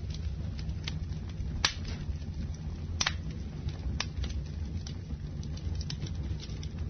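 Campfire burning: a steady low rumble of the flames with sharp crackles and pops from the burning wood about once a second. The loudest pops come about a second and a half in and again at three seconds.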